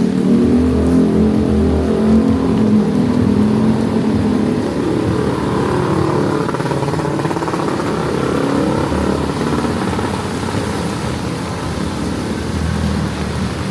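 A motor vehicle engine runs close by, then revs, its pitch rising and falling, over a steady hiss.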